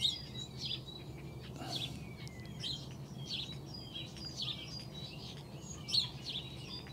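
Small birds chirping, with many short, high calls scattered and overlapping, over a faint, steady low hum.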